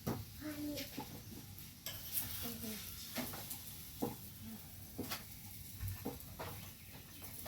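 Cooking utensils clinking and scraping against a pan or pot every second or so while food is stirred, with a faint sizzle underneath.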